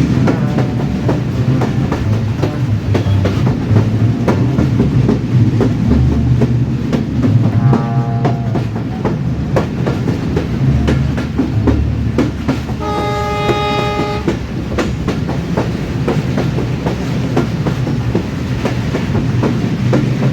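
Train running on the rails with a steady rumble and clatter of wheels. A little past halfway it sounds a horn once, a steady blast of over a second.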